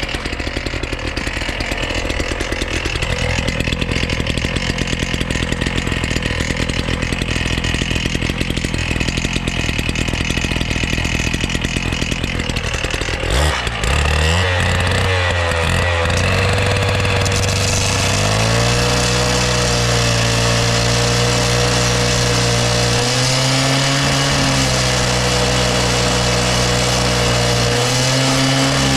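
A small petrol engine running steadily for about the first half. After that, sustained notes that change pitch in steps take over, like background music.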